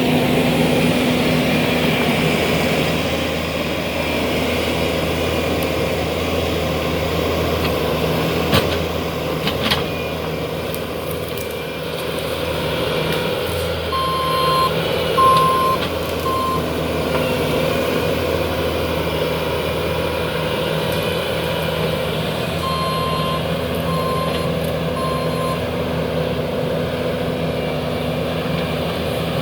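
Heavy land-clearing machine's diesel engine running steadily under work while pushing over trees, its reverse alarm beeping about once a second in a short run around the middle and again near the end. A few sharp cracks stand out about nine seconds in and again around fifteen seconds.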